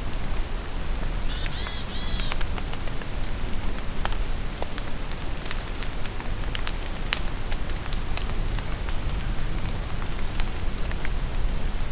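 Steady rain falling in a forest, with many individual drops ticking close by. A bird sings one short, rapid phrase about a second and a half in, and faint high chirps come here and there.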